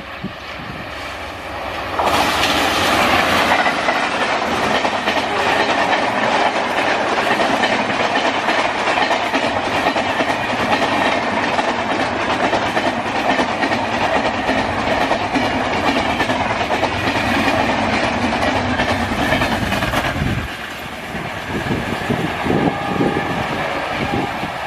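Train passing close by at speed, its wheels clattering over the rail joints. The sound comes in suddenly about two seconds in and drops away near the end.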